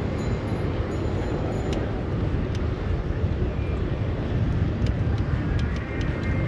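Steady rumble of city street traffic and road noise heard from a moving bicycle, with a few faint clicks.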